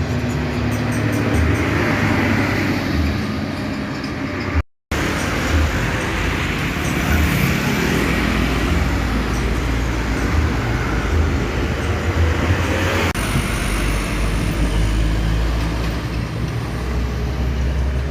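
Diesel trucks running on the road with traffic noise: a steady low engine rumble, interrupted by a brief dropout about five seconds in and an abrupt change to a heavier rumble about thirteen seconds in.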